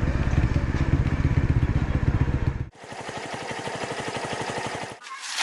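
Restored SYM Wolf motorcycle's engine running with a fast, even beat. It cuts off abruptly a little past halfway, giving way to a quieter, rhythmic engine pulsing that fades out near the end.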